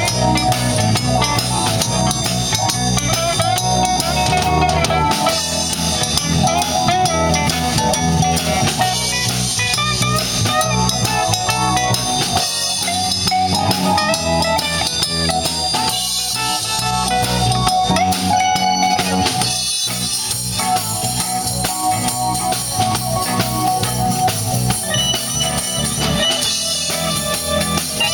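Blues band playing an instrumental break: a guitar lead with bending notes over drum kit and a steady low-end groove.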